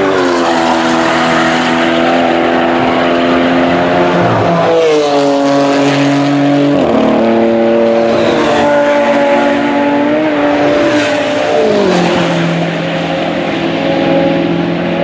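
Racing car engine running at high revs. Its note drops sharply several times, at gear changes, and holds or climbs slightly between them.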